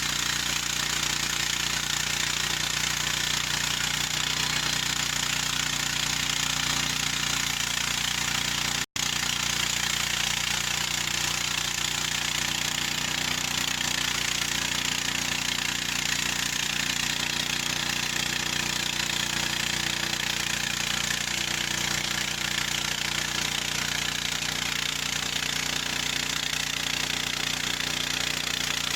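Harbor Freight bandsaw mill running steadily, its gasoline engine driving the band blade as it saws a log into lumber; the sound drops out for an instant about nine seconds in.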